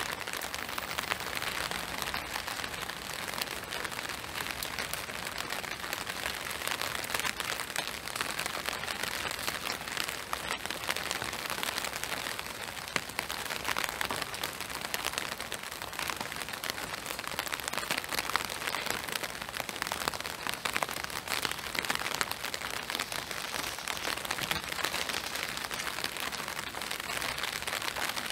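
Steady spring rain falling: an even hiss dotted with many small drop ticks.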